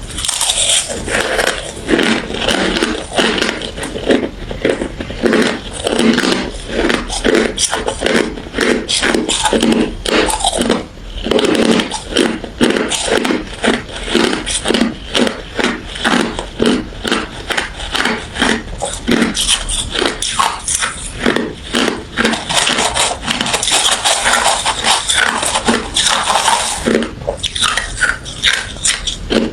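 Close-up chewing of refrozen crushed ice and frosty freezer ice: rapid, steady crunching bites at about three a second, with short pauses about eleven seconds in and near the end.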